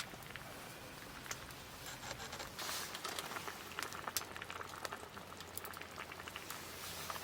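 A pot of pork miso soup simmering, a faint bubbling hiss with many small irregular pops.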